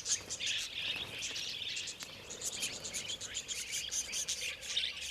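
Flock of wild budgerigars chattering: a dense, unbroken mass of short, high chirps.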